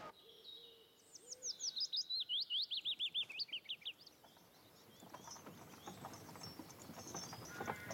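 A small bird sings a fast trill of about twenty high notes that step down in pitch over some three seconds. Then, from about five seconds in, horse-drawn carts approach with faint knocking and clatter that grows busier.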